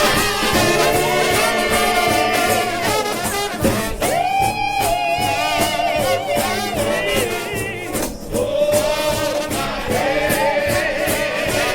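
A gospel trombone shout band playing. Several brass voices hold and bend long notes with a wide vibrato over a steady drum beat.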